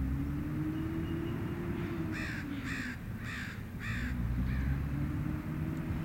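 A bird's harsh call, repeated five times in a row about half a second apart, the last one fainter, over a steady low hum that slowly rises and falls.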